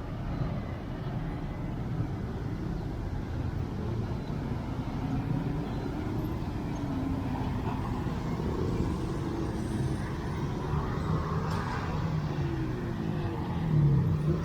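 City bus engine and road noise, a steady low rumble with the engine's pitch shifting a little as it drives.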